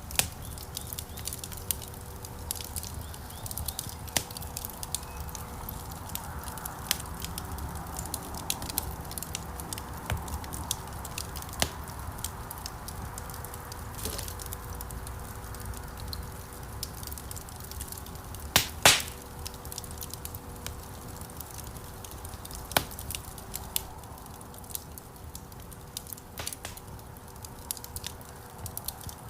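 Wood fire crackling: a steady low rumble of burning logs with frequent irregular sharp pops and snaps, the loudest a close pair of pops a little past halfway.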